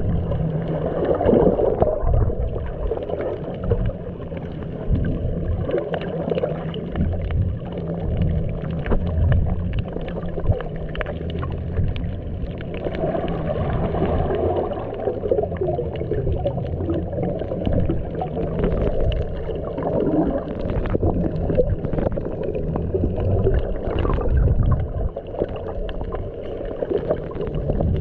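Muffled underwater sound from a camera submerged in the sea: a low, churning rumble with gurgling water noise.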